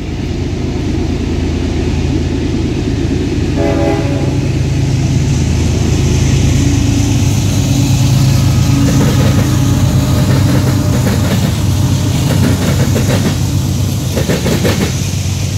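Union Pacific diesel freight locomotive rumbling as it approaches and passes close by, loudest about eight seconds in, with a brief horn note about four seconds in. From about nine seconds on come the rhythmic clicks and clatter of covered hopper wheels over the rail joints.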